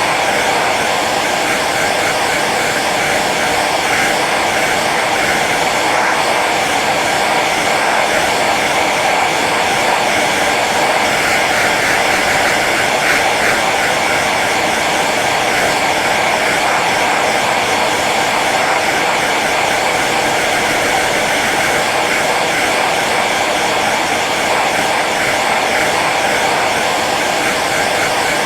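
Hair dryer running steadily on its low setting, an even rushing of fan and air.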